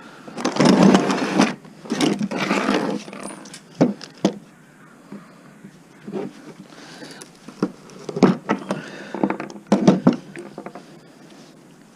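Metal knocks, clanks and scraping as a small appliance motor is broken open for its copper windings: two rough scraping bursts, then scattered sharp knocks.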